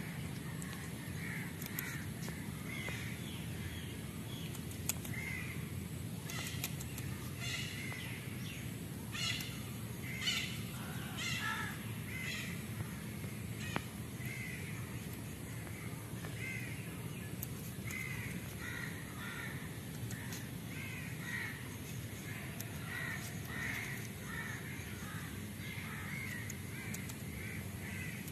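Birds calling outdoors: many short, repeated calls in quick succession, over a steady low background hum.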